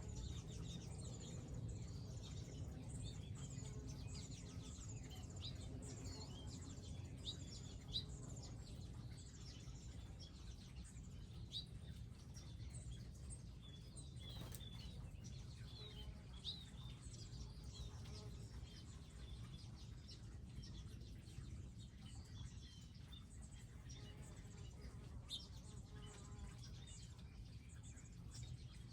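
Several small wild birds chirping and calling, short high chirps scattered throughout, over a low steady background rumble.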